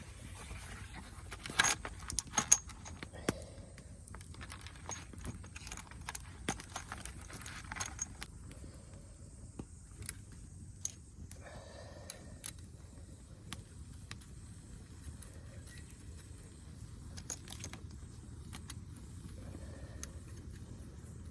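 Light metallic clinking and rattling from things being handled, with a cluster of sharper knocks about two seconds in and scattered clicks after.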